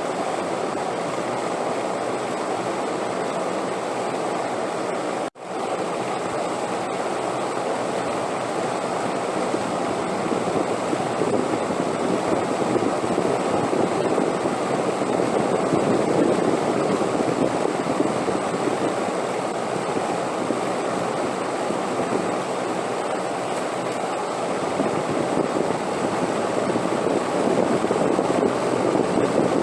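Steady rushing wind noise, a sleep-sound recording, rising and falling slightly in strength. It drops out for an instant about five seconds in.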